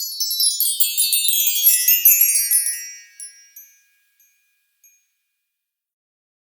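A shimmering cascade of high, bell-like chimes sliding down in pitch and fading out over about three seconds, like a magic-sparkle sound effect, followed by silence.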